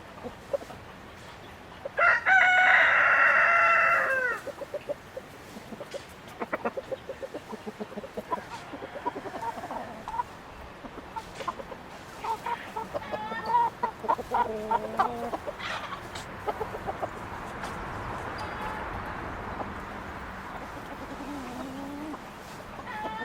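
A rooster crows once about two seconds in, one long call that falls away at the end. Chickens cluck and call in short bursts after it, with scattered small clicks.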